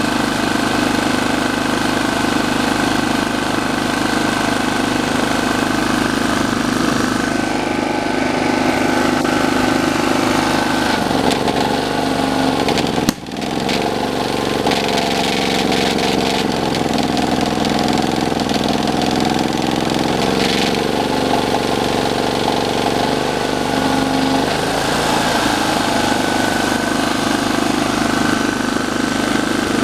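Camper van engine idling steadily with a thin high whine over it, recorded for an abnormal engine noise. About 13 seconds in, the sound breaks off for an instant. The engine note then changes for roughly ten seconds before returning to its first pattern.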